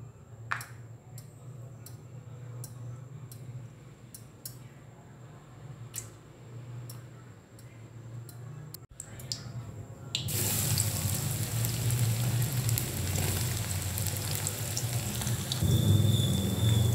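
Diced tempe sizzling in hot cooking oil in a wok: a loud, steady sizzle that starts suddenly about ten seconds in, once the tempe goes into the oil. Before that there is only a low hum with a few faint clicks.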